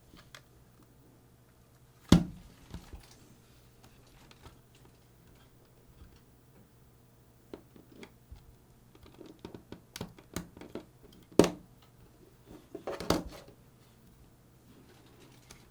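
Sharp clicks and light knocks of small plastic parts and tools being handled while a camcorder recorder unit is taken apart. A few louder knocks, about two seconds in, near the two-thirds mark and just after, stand out over scattered lighter ticks and a faint steady hum.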